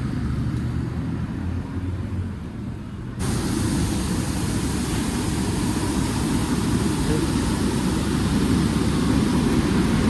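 Street traffic noise: a low rumble that changes suddenly about three seconds in to a steady, fuller noise that fills the whole range.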